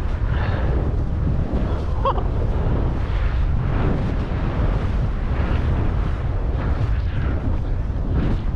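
Wind rushing over an action camera's microphone as a snowboard rides fast through deep powder, a dense steady rumble with the hiss of snow under the board. A brief pitched sound cuts in about two seconds in.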